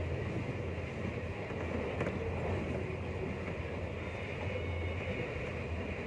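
Steady low rumble of a moving passenger train, heard from inside the carriage, with a faint click about two seconds in.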